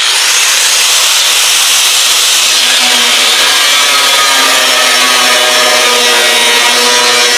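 Power tool cutting into the steel of an empty propane tank, starting abruptly and running steadily and loud, with ringing tones coming in a few seconds in.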